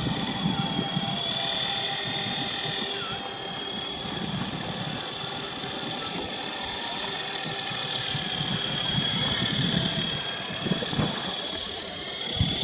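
Small RC helicopter's brushed electric main and tail motors running in flight, a steady high whine whose pitch wavers slightly with throttle, over a gusty low rumble.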